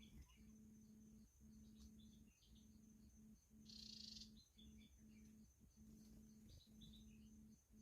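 Faint chirps and short calls of small birds, with a brief louder rasping call about four seconds in, over a low steady hum that breaks off every second or so.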